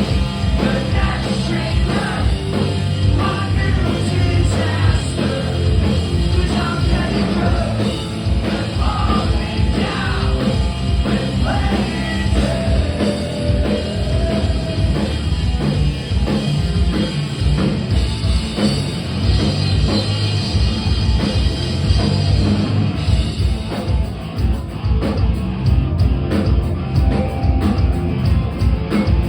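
A punk rock band playing live, with distorted guitars, bass and drums under shouted singing. Near the end the singing drops out and the drums carry on.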